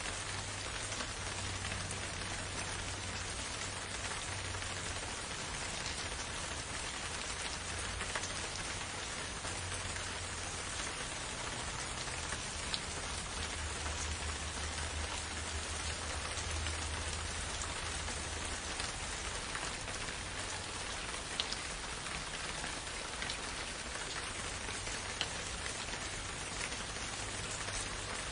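Steady rain falling, a continuous even hiss with a few sharper single drop ticks now and then and a low, uneven rumble underneath.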